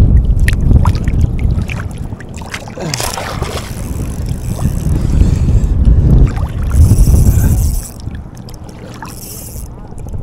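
Wind buffeting an action camera's microphone: a loud, uneven low rumble that drops away about eight seconds in, with light clicks and knocks of handling on top.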